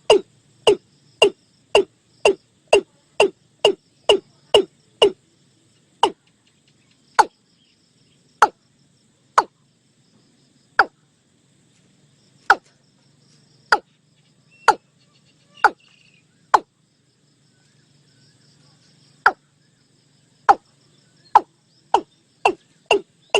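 Watercock calling: a long series of short, deep notes, each dropping quickly in pitch, about two a second at first, slowing to about one a second with a pause in the middle, then quickening again near the end.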